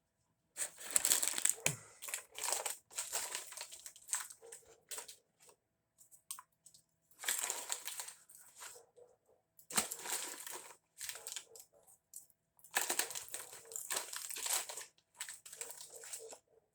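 Irregular bursts of crinkling and rustling, in four clusters with short pauses between them.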